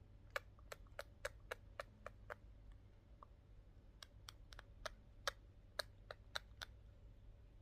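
Budgerigars' beaks tapping together as they kiss: a quick run of about eight small, sharp clicks, a pause, then another run of about ten clicks from about four seconds in.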